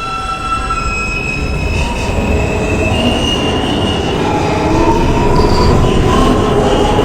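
R160 subway train pulling out and accelerating: its traction motors whine in rising tones over a low rumble of wheels on rail, with some wheel squeal, growing louder as it picks up speed.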